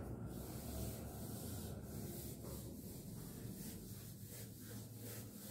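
Blackboard duster rubbing over a chalkboard in repeated strokes, wiping off chalk writing.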